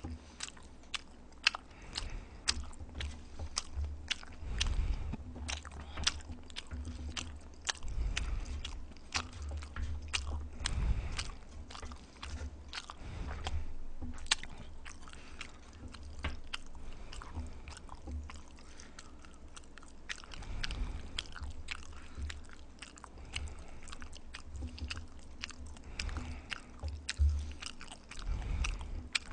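Close-miked chewing and biting of a mouthful of Chapagetti black-bean instant noodles, with many irregular wet mouth clicks and smacks. The noodles have sat and swollen, so they are thick and stodgy.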